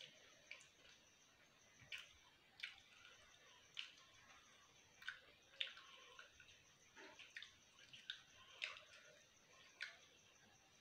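Faint wet mouth clicks and smacks of a person chewing pizza close to the microphone, roughly one a second and irregular, over a faint steady high-pitched whine.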